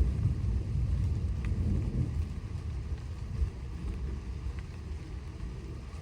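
Thunder rumbling low and dying away slowly, over a steady background of rain.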